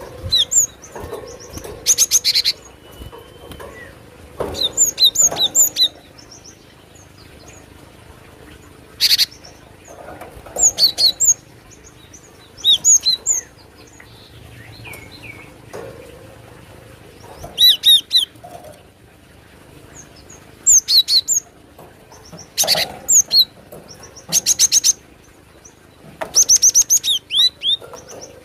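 Glatik batu (cinereous tit) calling: short bursts of sharp, high chirps and rapid buzzy note-strings, one phrase every two seconds or so, used as a lure call for trapping.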